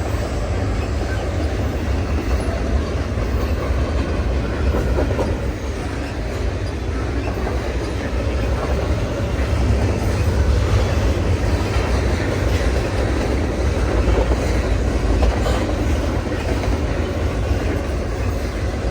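Freight train's cars rolling past close by: a steady rumble with the clickety-clack of wheels over the rail joints.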